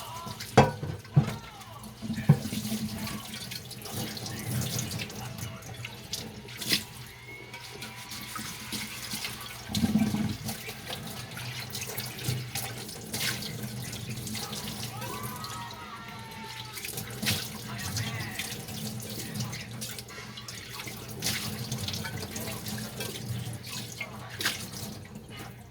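Kitchen tap running into a sink as dishes are washed and rinsed by hand, with a few sharp clinks and knocks of dishes, loudest in the first few seconds.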